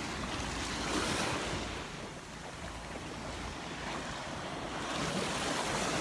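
Gulf of Mexico surf breaking and washing up the beach, swelling about a second in and again near the end, with wind buffeting the microphone.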